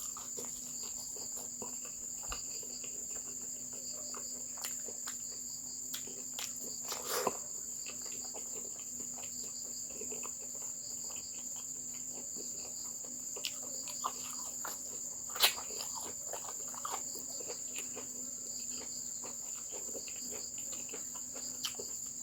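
A steady, high-pitched chorus of crickets, with scattered small clicks and taps over it; the sharpest click comes about 15 seconds in.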